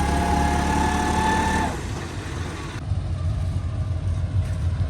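Tractor engine running at a steady low rumble. Over it, a high whine slowly drops in pitch and cuts off about two seconds in.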